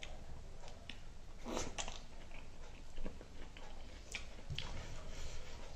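Eating sounds from someone eating spicy chicken wings and rice by hand: chewing and wet mouth smacks in short, irregular bursts.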